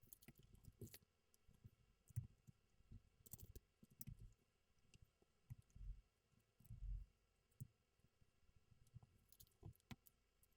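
Faint, irregular clicks and soft knocks of LEGO plastic pieces being handled and pressed together.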